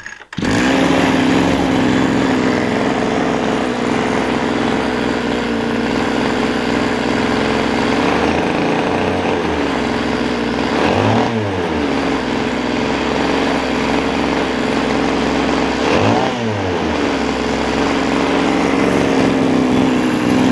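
Small 26.5cc single-cylinder two-stroke engine starts abruptly about half a second in and runs steadily near idle. It is blipped up in revs and falls back twice, about halfway through and again near three-quarters through.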